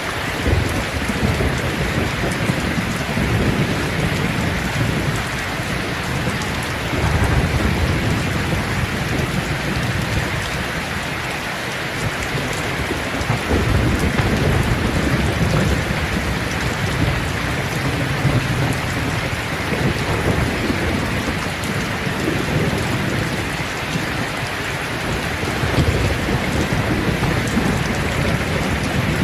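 Steady heavy rain falling on leaves, a dense even patter, with a low rumble that swells and fades several times.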